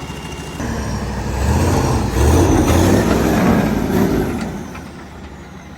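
IDI diesel V8 engine in a stub truck, revved up for a few seconds to move the truck and then dropping back. The owner suspects the engine is blown, with little compression on most cylinders.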